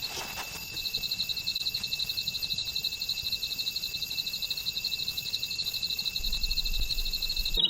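Insects trilling steadily: a high, rapidly pulsing chirp over a steady high whine. A low rumble joins in about six seconds in.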